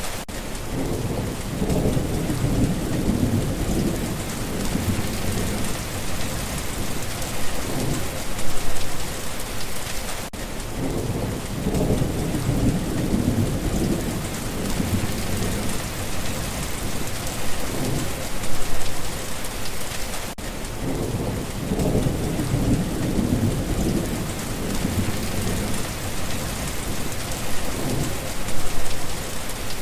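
Steady rain with low rolls of thunder, which swell three times about ten seconds apart.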